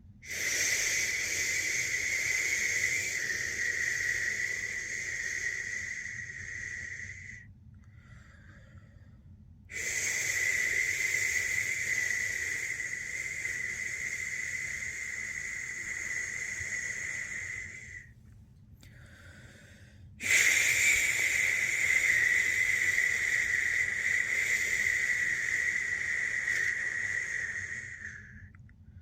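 A person making long, steady "shh" shushing sounds to lull a newborn to sleep. There are three shushes of about seven to eight seconds each, with short pauses between them.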